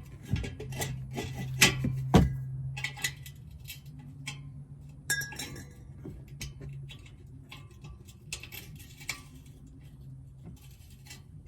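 Scattered sharp metallic clinks and taps of tools and metal exhaust-tip hardware being handled, over a steady low hum that fades near the end.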